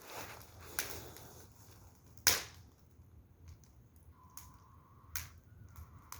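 Firewood burning, crackling with scattered sharp pops, the loudest a little over two seconds in. A faint steady high tone comes in about four seconds in.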